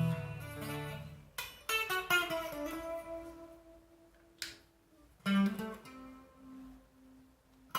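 Electric guitar played through a Vox AD30VT hybrid modelling amp set to a rotary-speaker effect with reverb. Picked chords and single notes ring out, and a held note near the end wavers in a regular pulse of about two swells a second.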